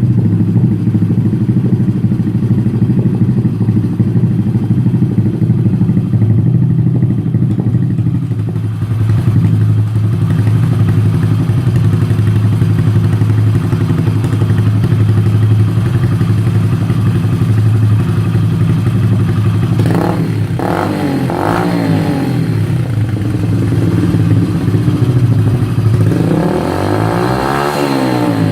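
Hero Splendor's single-cylinder four-stroke engine idling steadily through an aftermarket GP-style slip-on silencer. It is given a few quick throttle blips about two-thirds of the way in, then one longer rev that rises and falls near the end.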